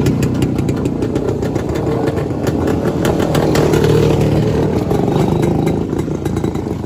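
A vehicle engine running steadily, its exhaust pulsing.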